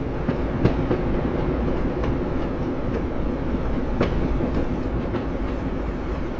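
Train running along the rails: a steady low rumble with scattered sharp clicks from the wheels over the rail joints.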